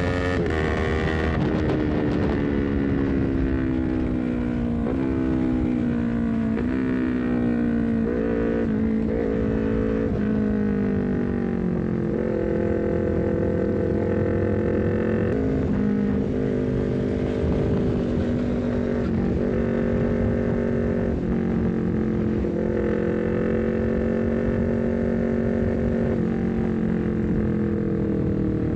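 Honda CBR250RR parallel-twin engine running at high revs through a Leovince GP Corsa short carbon silencer on a full-system header. The engine note drifts slowly down and steps back up several times, as with blipped downshifts, with steadier cruising stretches in between.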